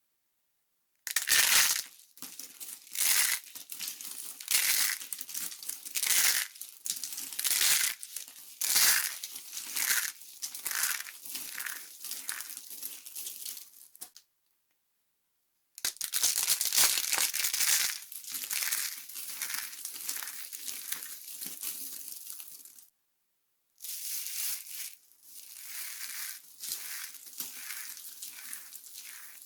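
Dry soap being crushed, a dense run of crisp crunches and crackles. It comes in three stretches with two short silent gaps, about 14 and 23 seconds in.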